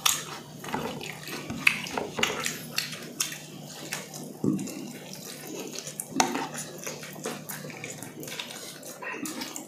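Close-up mukbang eating sounds: wet chewing and lip smacking as grilled chicken is eaten with the hands, with a steady scatter of short sharp clicks.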